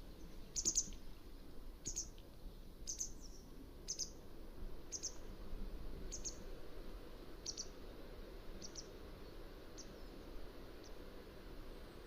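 Mountain wagtail giving a series of short, sharp high-pitched calls, about one a second, growing fainter toward the end.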